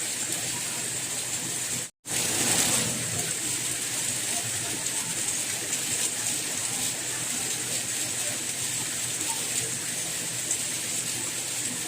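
Steady rain falling, an even hiss strongest in the high end, which cuts out for a split second about two seconds in and comes straight back.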